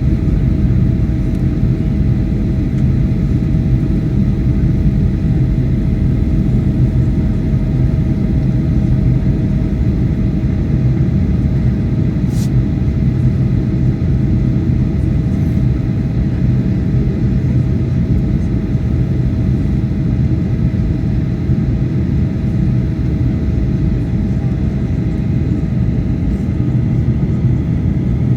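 Boeing 737-800 cabin noise in flight during the descent: a steady, loud, low rush of engine and airflow noise with a constant hum. A single brief click about halfway through.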